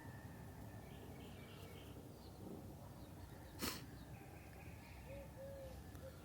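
Birds chirping faintly over a low background rumble, with a single sharp click about three and a half seconds in and two short, low calls near the end.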